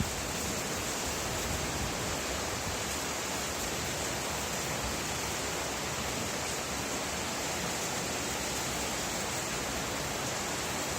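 Steady rain, an even hiss of falling water with no single drops standing out, and one brief tap right at the start.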